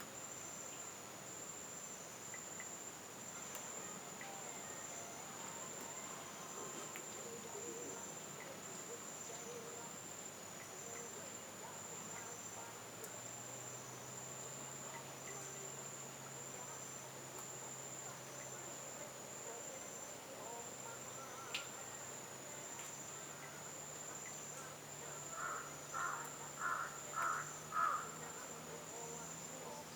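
Steady, high-pitched chorus of insects in mangrove forest, a continuous trill with a pulsing note just beneath it. Near the end, five short, louder notes sound in quick succession.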